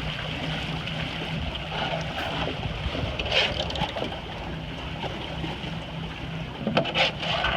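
Wind on the microphone and water rushing past the hull of a sailboat under way, a steady noise with a low rumble, with short louder bursts about halfway through and again near the end.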